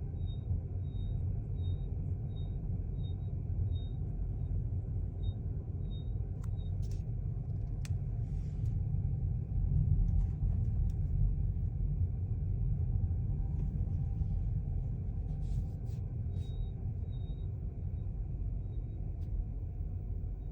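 Lexus UX running with a steady low rumble of road and drive noise. A faint high chirp repeats about one and a half times a second early on and again near the end, and a few sharp clicks come through in the middle.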